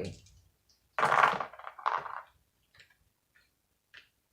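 Tarot cards being shuffled: a loud riffling burst about a second in and a shorter one about two seconds in, then a few faint ticks as the cards are handled.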